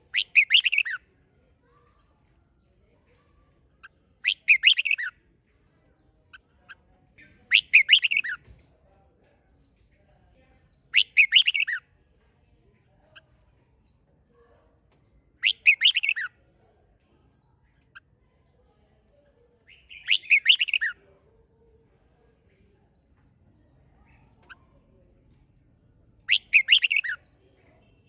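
Red-whiskered bulbul singing: seven short, loud song phrases of about a second each, spaced roughly four seconds apart, with faint short chirps between them.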